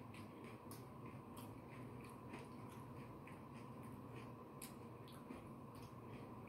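Faint, irregular crunching and wet mouth clicks of someone chewing a raw sweet bell pepper stuffed with cream cheese and crunchy Takis chips, over a low steady hum.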